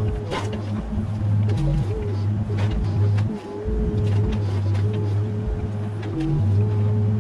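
Mini excavator's diesel engine running steadily, with a hydraulic whine that dips in pitch for a moment several times as the controls are worked. Scattered sharp knocks sound over it.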